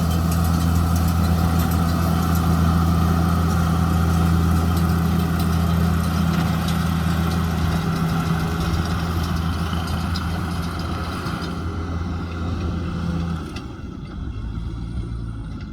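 JCB Fastrac tractor engine running steadily with a low hum, along with the clatter of a baler-wrapper working. The sound grows gradually quieter, and about 13 seconds in the engine hum changes and drops.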